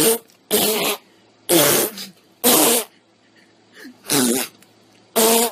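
A series of six loud, short, buzzing fart noises at irregular intervals.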